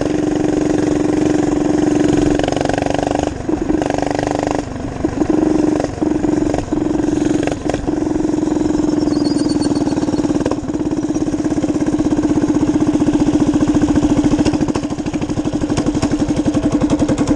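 Minibike's small engine running at a steady pitch, with several brief dips in the sound over the first half, then running on evenly with a pulsing beat.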